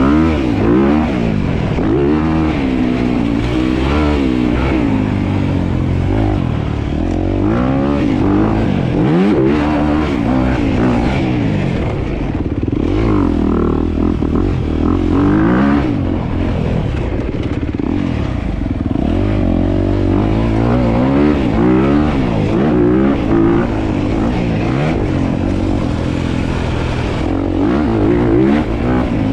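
Dirt bike engine being ridden hard, its pitch repeatedly climbing and dropping as the throttle is opened and closed.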